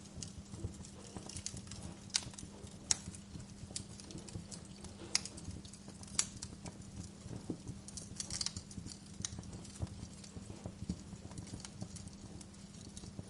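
Wood fire crackling in a fireplace: irregular sharp pops and snaps, a few each second, over a low steady hum.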